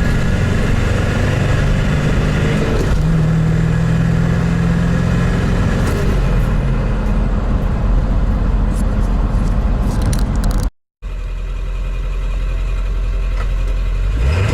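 Ford F-350's 7.3 L Powerstroke turbo-diesel V8 running loud under full acceleration, its note dropping at a gear change about six seconds in. The sound breaks off for a moment near eleven seconds, then carries on.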